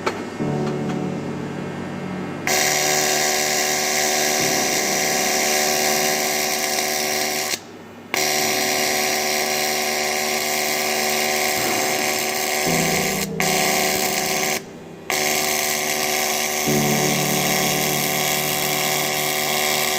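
AC TIG welding arc on aluminium: a steady buzzing hiss with a fixed hum under it. It cuts out twice for about half a second as the arc is broken and struck again.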